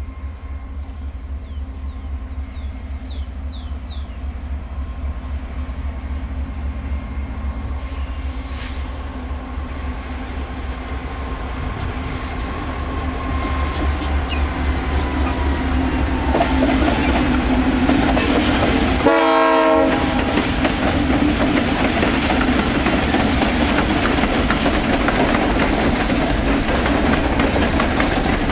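Diesel-electric freight locomotives approaching and passing, their engine drone growing louder as they near, with wheel-on-rail running noise from the train. A short horn blast sounds about two-thirds of the way through.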